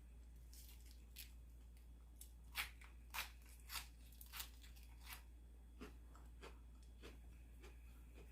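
Person chewing crunchy food close to the microphone: a string of faint, irregular crisp crunches, loudest in the first half, over a low steady hum.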